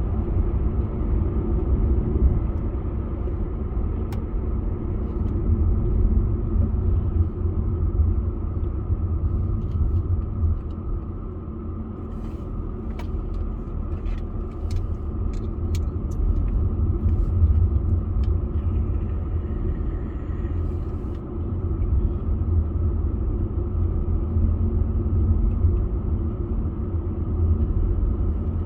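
Car driving along, a steady low rumble of engine and road noise, with a few faint light clicks around the middle.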